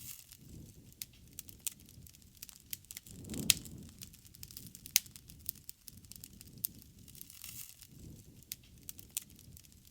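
Wood bonfire crackling, with irregular sharp pops and snaps, the loudest about three and a half and five seconds in, over a low rumble of burning that swells around three to four seconds in.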